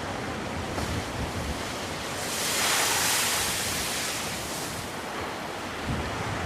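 Black Sea surf washing onto the shore: a steady wash of waves, with one wave swelling into a louder hiss about two seconds in and fading out by about five seconds. Wind buffets the microphone near the end.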